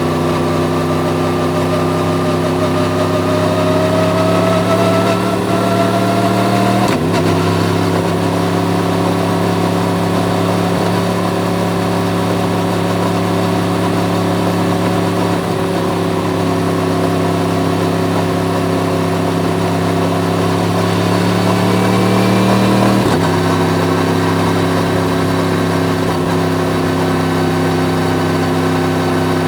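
Yamaha MT-10's crossplane inline-four engine pulling steadily under gentle acceleration, its pitch climbing slowly, with a sudden drop in revs at an upshift about seven seconds in and again about twenty-three seconds in.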